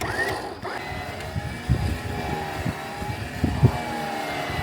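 Off-road truck engine working under load in deep snow, rising in pitch just after the start and then holding steady with a thin high whine, as a stuck 4Runner is recovered.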